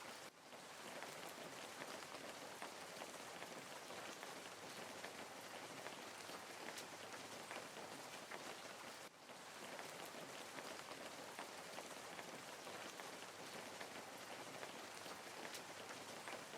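Small garden pond waterfall fountain, water steadily splashing and trickling into the pond, with two brief dips in level, one just after the start and one about halfway.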